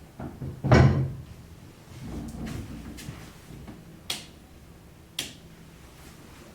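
A heavy thump about a second in, then two short sharp knocks about a second apart.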